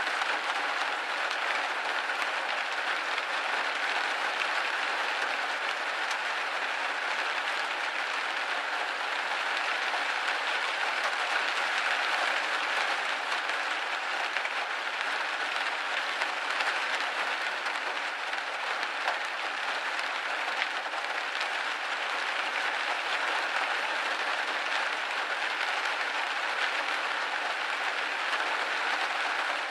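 Steady rain pattering on a window pane, a dense, even hiss of drops with occasional louder single taps.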